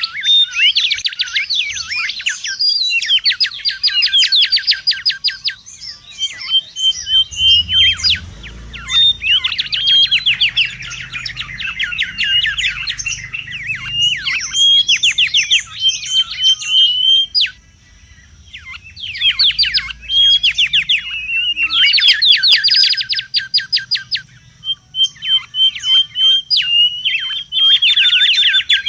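Mangrove whistler calling loudly: phrases of rapid, fast-sweeping whistled notes run together into trills, alternating with short runs of clipped repeated notes, with brief pauses between phrases and one longer pause just past the middle. A faint low hum lies underneath.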